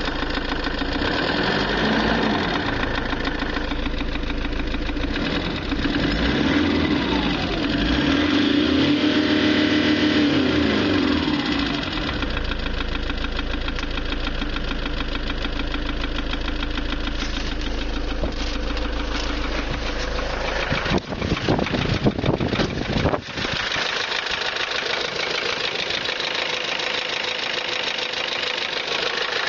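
Toyota 1KD-FTV 3.0-litre four-cylinder turbodiesel running with a knock. Its speed rises and falls in slow sweeps a few times in the first half; past the middle come a few sharp clatters, then a thinner, less deep running sound.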